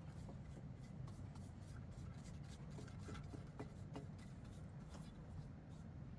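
Faint scratchy strokes and light ticks of a paintbrush being worked by hand, over a steady low background rumble.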